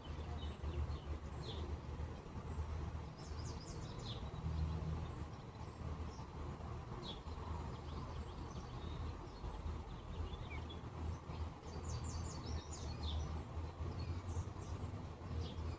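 Wild birds chirping outdoors in short, high, scattered calls, some coming in quick clusters, over a steady low rumble of background noise.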